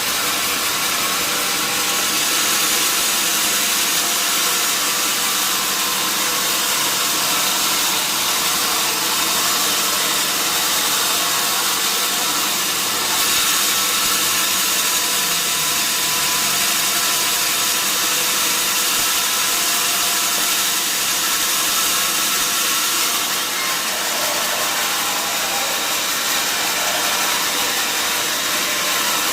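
Sawmill saw running steadily through mahogany wood: an even rushing noise with several steady tones, holding level throughout.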